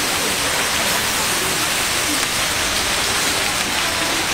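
Food frying with a steady sizzle, an even hiss that does not let up.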